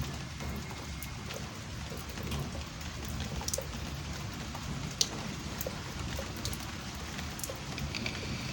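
Steady rain falling during a thunderstorm, with scattered sharp ticks of individual drops striking close by over a low rumble.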